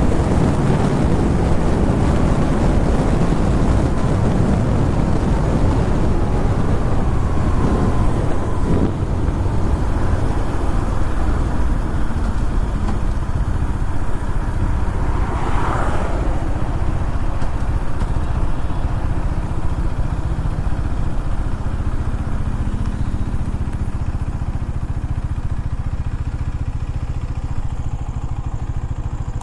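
KTM Duke 250's single-cylinder engine running on the move, with wind rushing over the helmet mic, easing off gradually toward the end. There is a brief higher-pitched sound about halfway through.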